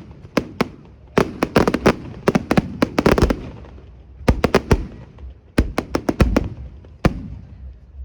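Fireworks going off: rapid clusters of sharp bangs and cracks, thinning out and ending with a single crack about seven seconds in.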